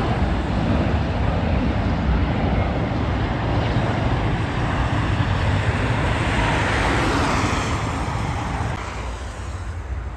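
Jet airliner going past, a loud steady rush of engine noise that fades about eight seconds in.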